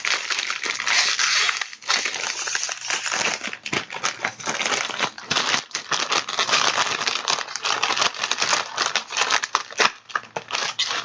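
Packaging crinkling and crackling as it is handled, a steady run of small clicks with a few brief pauses.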